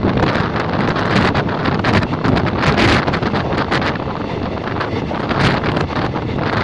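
Passenger train of ICF coaches running at speed: a steady rush of wind buffeting the microphone over the rumble of the coach, with many short clicks of wheel and rail clatter.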